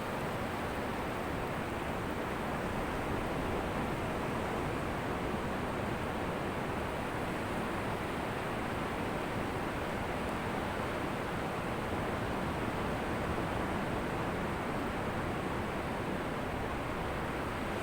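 Ocean surf washing on a beach: a steady, even rush of breaking waves with no distinct surges.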